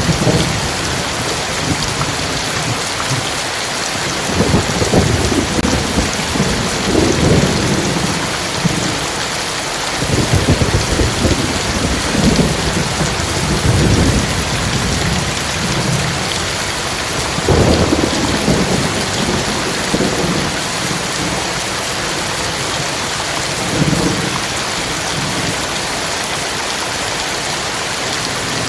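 Heavy rain hissing steadily, with low rumbles of thunder rolling in every few seconds during a thunderstorm.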